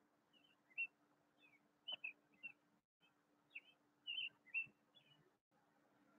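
Faint bird chirps: short high notes scattered through, over a faint steady low hum.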